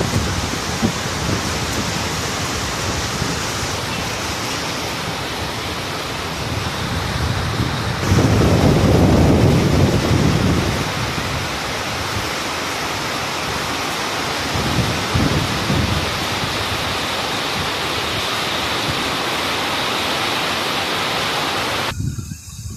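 Rain falling in a steady hiss, with a louder low rumble about eight seconds in that lasts a couple of seconds. The hiss cuts off suddenly just before the end.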